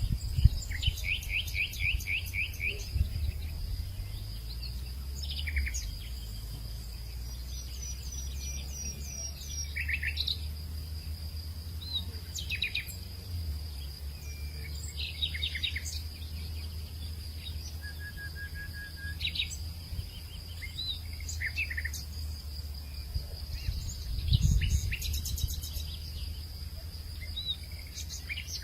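Evening hillside ambience: several birds chirping and trilling at intervals over a steady high-pitched insect drone, with a low rumble underneath that swells briefly near the end.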